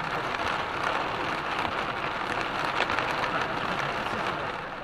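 Heavy thunderstorm rain pelting a car's roof and windows, a dense steady hiss of drops heard from inside the car, easing slightly near the end.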